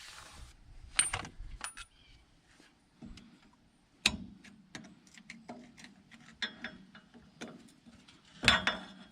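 Small steel wheel-hub parts, such as the spindle nut and cap, clinking and tapping together as they are handled. It is a string of sharp metallic clicks, some with a short ring, and grows busier and louder toward the end.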